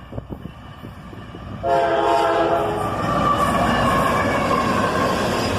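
A diesel freight locomotive's horn gives one quick toot, a chord of several notes about a second and a half in and lasting about a second. The lead GE ET44AH locomotive then passes close by, loud and steady, with the train's rumble and rail noise.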